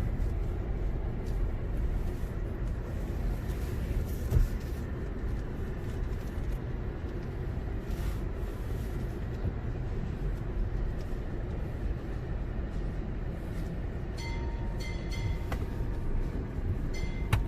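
Low, steady rumble of a car's engine and tyres heard from inside the cabin as it creeps into a car wash tunnel, with a single knock about four seconds in. Near the end, a run of short, high beeps sounds twice.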